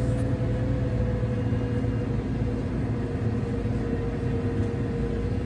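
Tractor engine running steadily at an even speed, a constant low drone.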